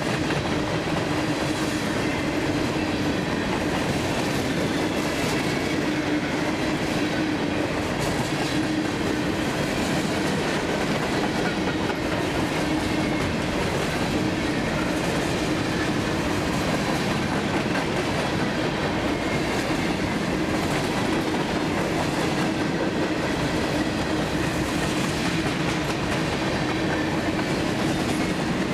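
Freight train cars rolling steadily past, a continuous clatter of steel wheels on the rails with a steady ringing tone underneath.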